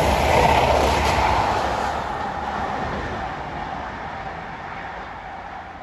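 CrossCountry High Speed Train (Class 43 power cars with Mk3 coaches) passing at speed and drawing away, the rail and engine noise loudest about half a second in and then fading steadily.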